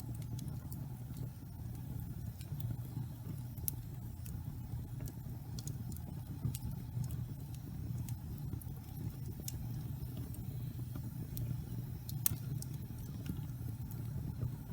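Wood fire with burning logs crackling: irregular sharp pops and snaps over a steady low rumble.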